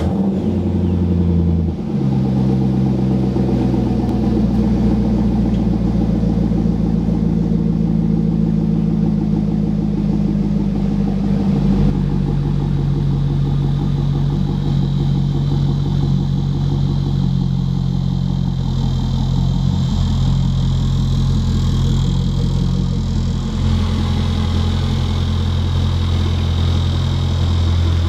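2005 Corvette C6's 6.0 L LS2 V8 through a Borla aftermarket exhaust, idling steadily just after being started. Its note shifts slightly a few times, about two seconds in, about twelve seconds in and near the end.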